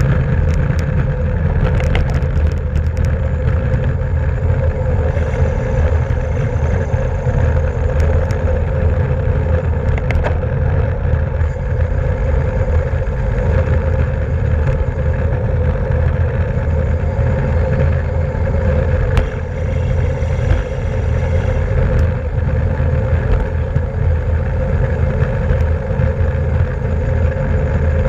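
Steady wind rush and road noise from a racing bicycle at speed, heavy in the low end, with a faint steady hum and a few light ticks.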